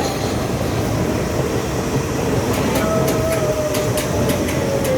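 Subway train running, heard from inside the car: a steady rumble with a few sharp clicks. About halfway through, a whine comes in and slides slowly lower.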